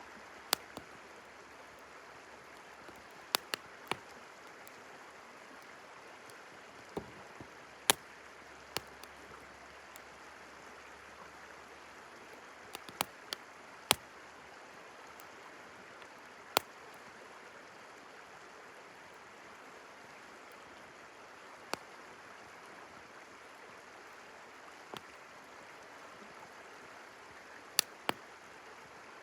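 Wood campfire crackling, with sharp pops every second or few seconds, over the steady rush of a flowing river.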